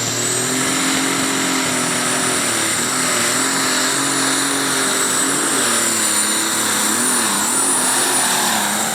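Super stock pulling tractor's turbocharged diesel engine running hard at full throttle during a pull, with a high turbo whistle that rises in the first half second and then holds. The engine pitch wavers near the end.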